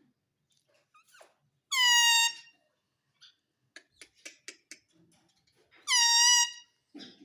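Pet parrot giving two loud, long calls about four seconds apart, each held on one steady pitch, with a quick run of soft clicks between them.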